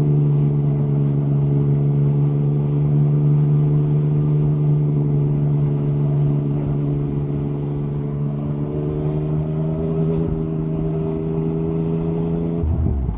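Yamaha MT-09 SP's three-cylinder engine through an Akrapovic carbon exhaust, held at steady revs under light throttle while riding. Near the end the note drops abruptly as the revs fall.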